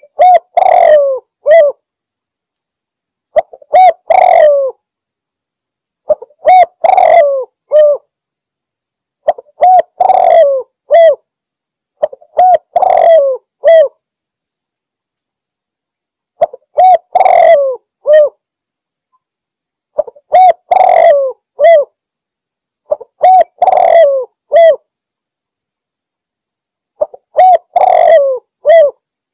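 Spotted dove (tekukur) cooing: a phrase of a few low coos, repeated nine times about every three to four seconds. It is the call used to challenge a rival dove.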